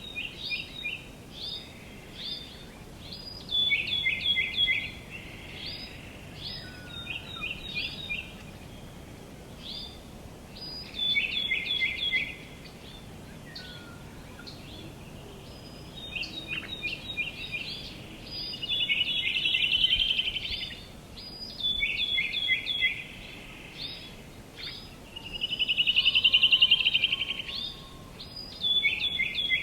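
Songbirds chirping and singing in short repeated phrases, with a couple of louder rapid trills in the second half, over a steady faint background hiss of outdoor ambience.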